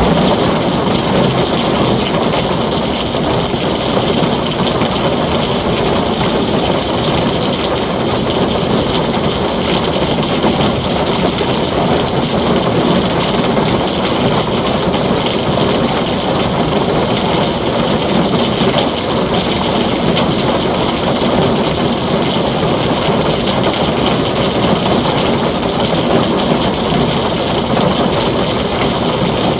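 Heavy rain falling on a tin roof, a dense, steady wash of noise.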